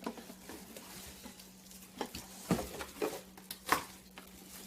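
Packaging and a boxed coffee maker being handled: irregular taps, knocks and rustles of cardboard and plastic, with the sharpest knock a little before the end, over a faint steady hum.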